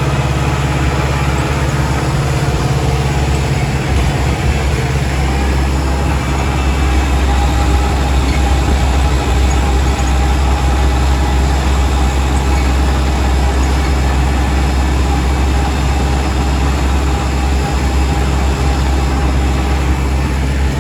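Kubota L5240 tractor's diesel engine running steadily, a loud low drone. It cuts off suddenly at the very end.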